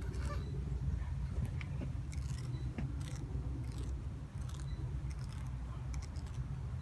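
Spiral rasp tool from a tubeless tire plug kit being twisted in a nail puncture in a car tire's tread, its rubber scraping in short irregular strokes as the hole is roughened for a plug. A low steady hum runs underneath.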